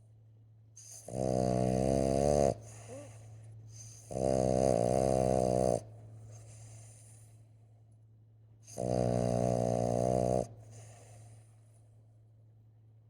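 Boston terrier snoring in its sleep: three loud snores, each about a second and a half long, coming every three to four seconds, with quiet breathing between them.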